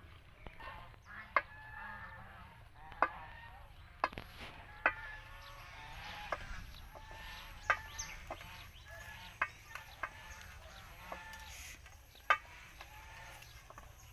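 Sharp clicks and snaps every second or so, at irregular intervals, from java plum fruit being picked off by hand. Faint calls of domestic fowl run underneath.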